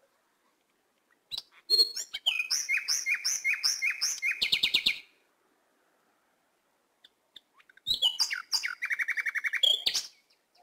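A bird singing: two phrases of repeated high, down-slurred chirps, each ending in a fast trill, the first about a second in and the second near the end.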